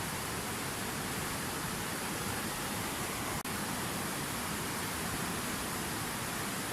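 Water from a fountain waterfall falling in a steady, even rush, with a momentary dropout about three and a half seconds in.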